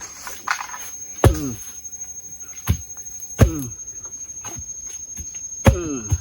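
Four heavy knocks, irregularly spaced, as wood is pounded while a shelter frame is put up; each blow is followed by a short falling ring. A steady high insect trill runs underneath.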